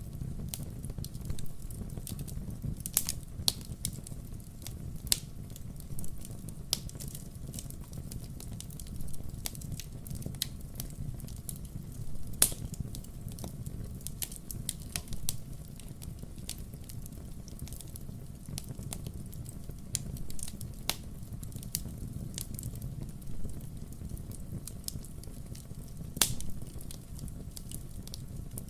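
Wood fire crackling: a steady low rumble of the flames under irregular sharp pops and snaps from the burning logs, a few of them markedly louder.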